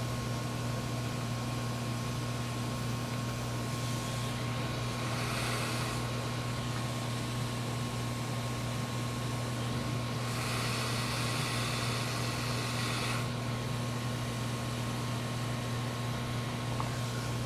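Steady low electrical hum from bench equipment, with a faint steady whine above it. Twice, a hiss lasting two to three seconds comes in and stops: once a few seconds in and again about ten seconds in.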